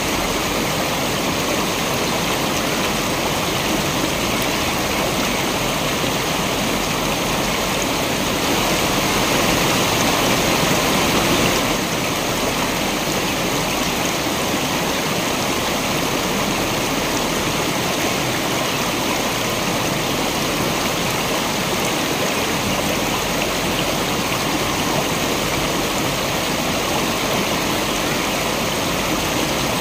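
Waterfall rushing steadily, a little louder for about three seconds near the middle.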